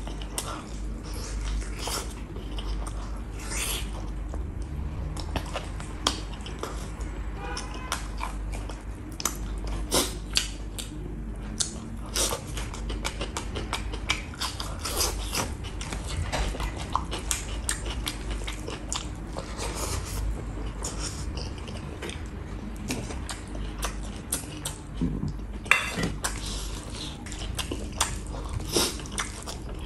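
Close-up chewing and lip smacking of beef and rice, eaten by hand, in a dense, uneven run of mouth clicks.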